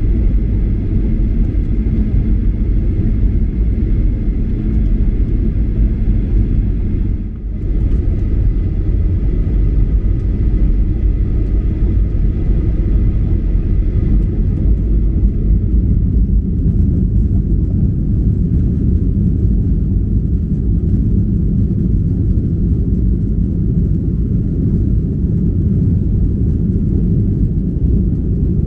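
Steady low rumble of a Boeing 737-800 cabin in flight, with a faint steady engine whine above it. There is a brief drop in level about seven seconds in.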